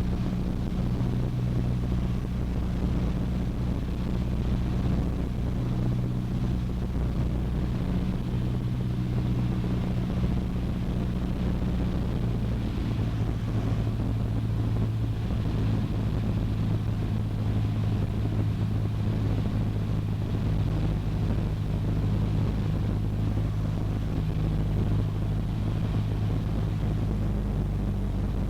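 Cessna 152's four-cylinder Lycoming engine and propeller drone steadily, heard inside the cockpit during the landing approach, with small shifts in pitch.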